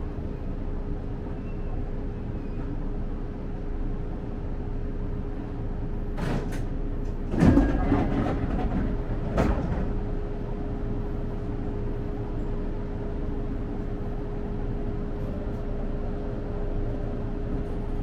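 Electric commuter train heard from inside the driver's cab at low speed: steady running noise with a constant electrical hum. A few sharp clunks and knocks come between about six and ten seconds in, the loudest at about seven and a half seconds.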